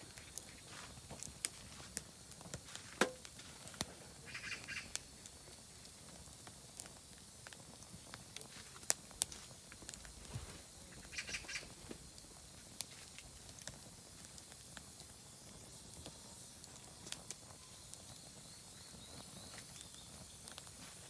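Oak firewood burning in a campfire, giving off scattered sharp crackles and pops. A bird gives two short, rapid runs of harsh notes, about 4 seconds and 11 seconds in.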